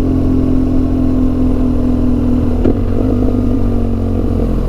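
Motorcycle engine running at a steady cruise, its pitch holding level over a low rumble. A brief knock comes a little past halfway.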